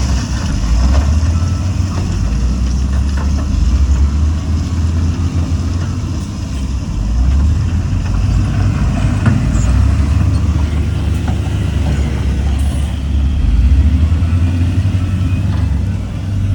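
Heavy diesel engine of earthmoving machinery running with a low drone that swells and eases every few seconds as the load changes.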